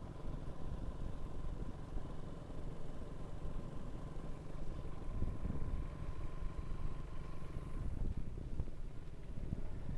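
Motorcycle engine running at a steady cruising speed, with road and wind rumble on a bike-mounted microphone. A faint steady whine holds until about eight seconds in.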